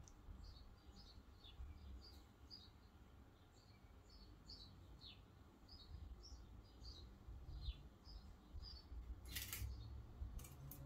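Faint, repeated high bird chirps, a couple each second, some sliding downward in pitch, over near silence. A brief rustle comes near the end.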